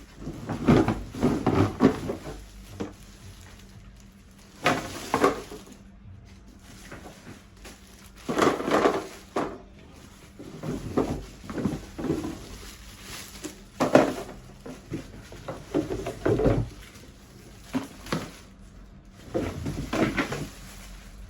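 Irregular knocks and clatter of baby high chair parts being taken out of the box, handled and set down, a few sharp impacts every second or two.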